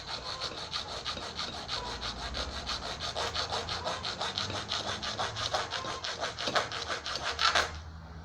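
A saw cutting through the brushcutter's aluminium boom tube: fast, even scraping strokes, a few louder ones near the end, then it stops abruptly.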